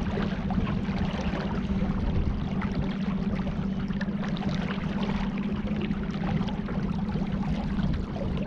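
Water lapping and splashing around a kayak on the river, a steady stream of small splashes, with a steady low hum beneath it.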